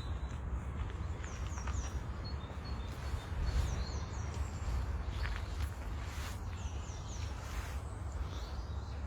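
A small bird singing short, high phrases of a few quick falling notes, repeated several times, over a steady low rumble and faint footsteps.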